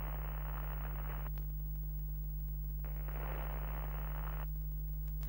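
Steady low electrical hum with two short bursts of static hiss over it, one at the start and one about three seconds in.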